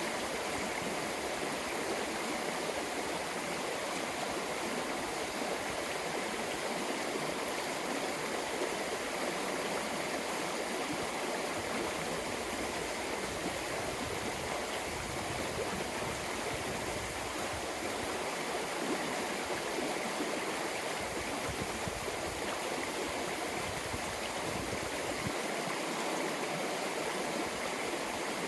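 A small, fast-flowing stream: a steady, unbroken rush of running water.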